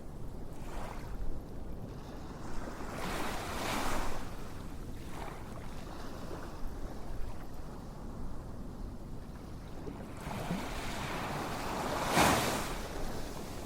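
Ocean waves washing in and receding, with two stronger surges of surf, one about three seconds in and one near the end.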